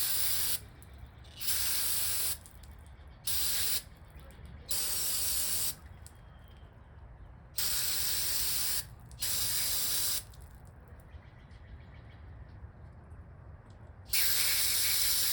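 Aerosol carburetor cleaner sprayed into a lawnmower carburetor in about seven short hissing bursts, each half a second to a second long, with pauses between them. The can is highly pressurized.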